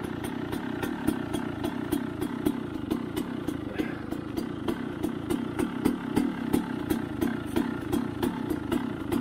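Dirt bike engine idling, with a steady pulsing beat of about two to three pulses a second.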